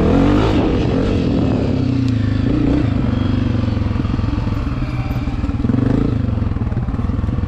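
Dirt bike engine running while being ridden, its pitch rising and falling with the throttle, with a brief louder surge about half a second in.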